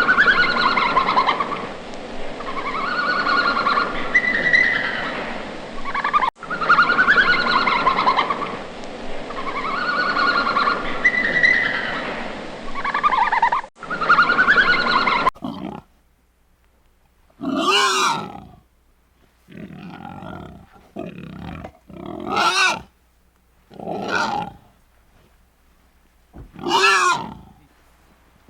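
Animal calls. First a repeating stretch of pitched, wavering cries, then, about halfway through, separate loud calls each under a second long, spaced a couple of seconds apart with quiet between.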